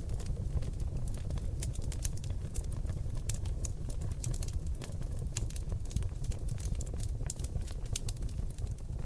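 Seasoned oak logs burning in a fireplace: dense, irregular crackles and pops over a steady low rumble of the flames.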